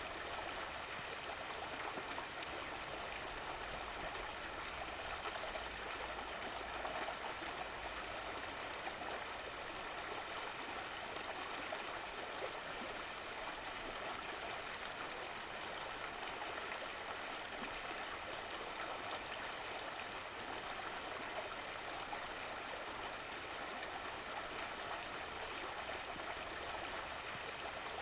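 Running water of a stream flowing steadily, an even rushing and trickling.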